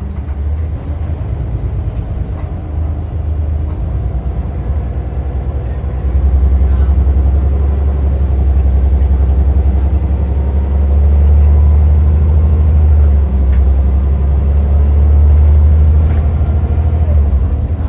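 Scania L94UA articulated bus engine running with a deep, steady rumble that grows louder about six seconds in, as under load pulling away or passing, and eases near the end.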